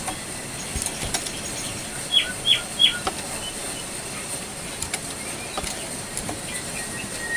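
Jongkangan coklat songbird calling: three quick, sharp notes, each sweeping down in pitch, about two seconds in, with scattered faint chirps and ticks over a steady hiss.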